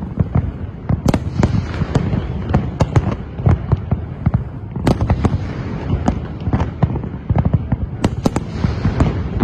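Fireworks display: a rapid, irregular barrage of bangs and crackles over a steady low rumble of shells bursting.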